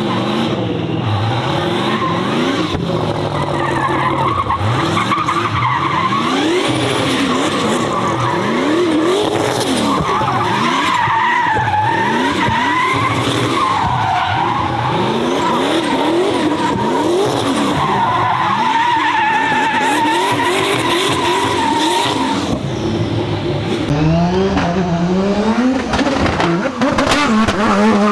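A high-performance car engine revving hard in quick repeated rising bursts as the car is powerslid, its tyres squealing with a long wavering screech through the middle.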